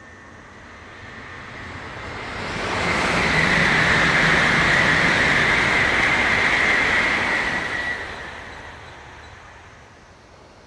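Shinkansen bullet train passing at high speed: a rushing roar that builds over about three seconds, stays loud for about five, then dies away.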